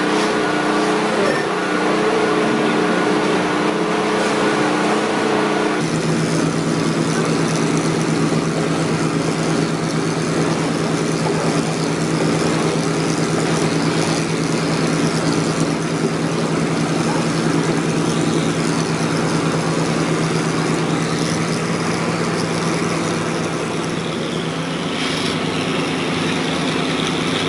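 A machine's engine running steadily, its tone shifting abruptly about six seconds in to a steadier, lower hum.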